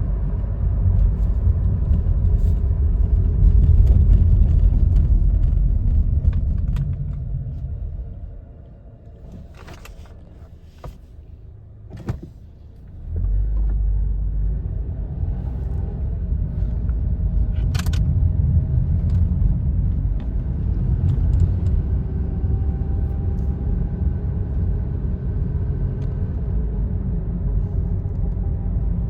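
Low rumble of a car, which fades away a few seconds in, leaving a quiet stretch with a few clicks, then returns suddenly and runs steadily.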